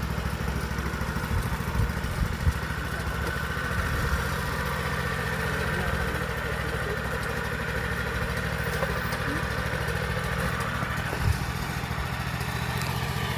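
Small engine of a Maxxi PF48 rice transplanter running steadily during a field test, with a few short knocks from the machine about two seconds in and again near the end.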